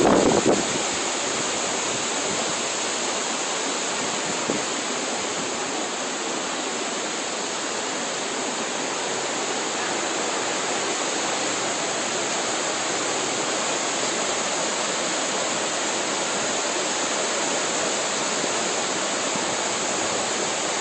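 Steady rush of fast-flowing floodwater: a small stream swollen into a torrent, running hard without a break.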